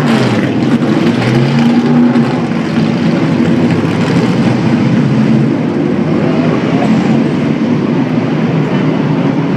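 Vintage race car engines running loudly, several exhaust notes overlapping, their pitch rising and falling briefly as they rev.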